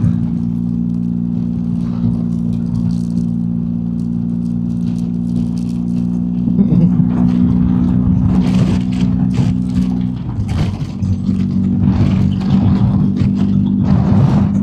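BMW R1250GSA's boxer-twin engine running at a steady road speed, with wind rushing and buffeting on the microphone. About ten seconds in the engine note dips briefly and resumes at a slightly different pitch.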